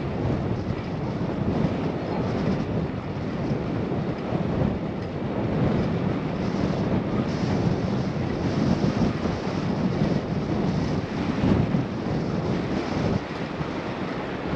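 Wind rushing over a GoPro's microphone while cycling, a steady, low rumbling noise that swells and dips.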